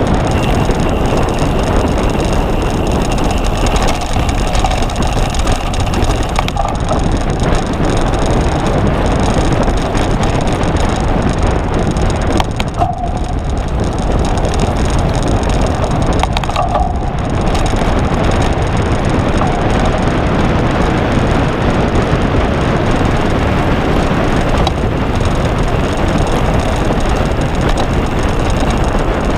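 Cyclocross bicycle being ridden, heard as a steady loud rush of wind and tyre noise with rattling from the bike.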